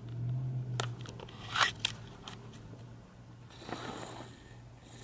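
Someone eating close to the microphone: scattered crunchy bites and small clicks of chewing over a steady low hum.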